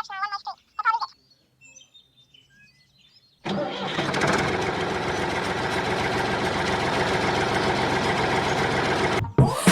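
Small engine of a miniature DIY tractor cutting in suddenly a little over three seconds in and running steadily for about six seconds before stopping abruptly. Before it, birds chirp.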